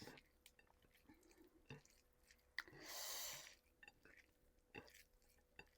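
Quiet mouth sounds of a person chewing a mouthful of curry and rice, with small wet clicks and smacks, and a short hissing rush about halfway through.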